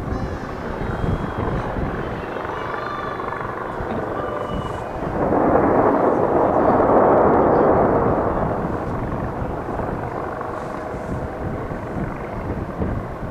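Fireworks display booming and rumbling in a steady dense barrage. A louder rushing swell starts about five seconds in and lasts about three seconds.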